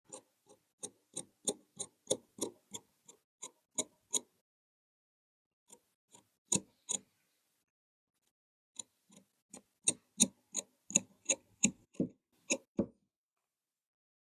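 Quick runs of short, sharp clicks from a tailor's tools at work, about three a second, broken by a pause in the middle.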